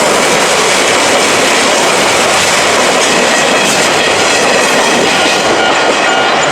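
Izuhakone Railway Sunzu Line train passing over a level crossing: a loud, steady rush of wheel-on-rail noise.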